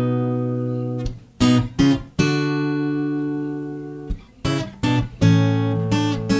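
Acoustic guitar fingerpicked slowly in F-sharp minor: plucked chords left to ring, between short runs of single notes.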